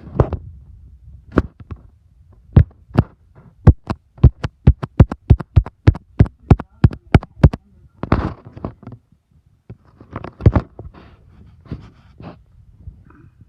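A run of sharp knocks. A few come singly at first, then about five a second for some four seconds, followed by a few rougher, noisier bursts.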